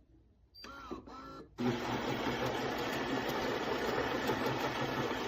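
Philips fully automatic espresso machine starting up about a second and a half in, then running with a loud, steady mechanical whirr and a fast low buzz underneath.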